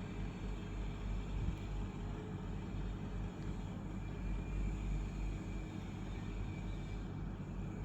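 2004 Panasonic CS-C12CKH split air conditioner's indoor unit running: a steady rush of fan airflow over a low hum, with a faint steady high whine.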